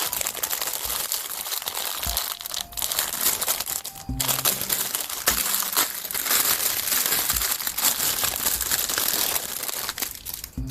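Plastic packaging crinkling as it is handled and opened, with a short lull about four seconds in.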